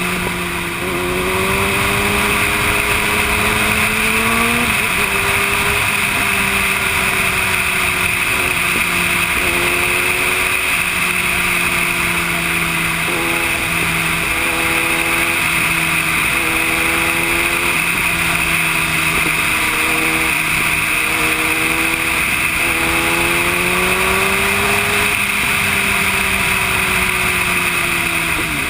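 Yamaha YZF-R1's inline-four engine running at highway speed, its pitch rising and falling with the throttle and dropping suddenly a few seconds in, under a steady rush of wind.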